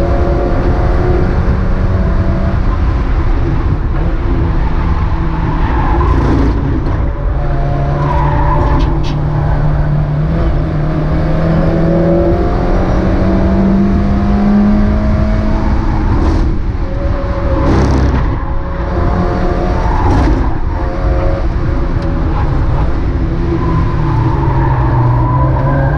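Mazda MX-5 race car's four-cylinder engine running hard under racing load, its revs repeatedly rising and falling through gear changes, with a few brief sharp noises along the way.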